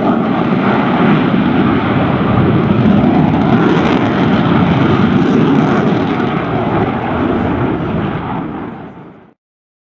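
Loud, steady rushing engine noise of an airplane, fading away near the end and then cutting off to silence.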